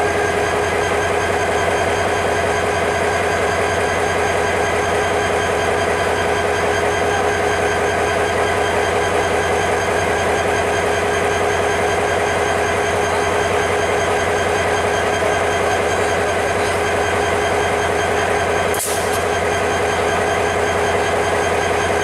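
Bangladesh Railway passenger train's coaches rolling slowly away over the points, a steady rail rumble with a constant droning hum throughout. One sharp click near the end.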